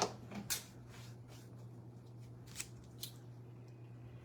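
A few light taps and rustles of small paper craft pieces being handled and set onto a sheet, over a steady low electrical hum.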